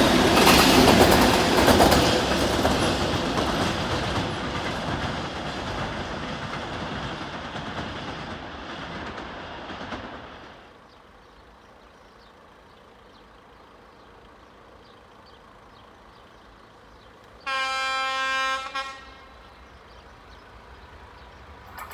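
A train on electrified main line passes close by with a loud rumble and wheel clatter, fading steadily over about ten seconds as it moves away. Later a train horn sounds once in the distance, a single held note lasting about a second and a half.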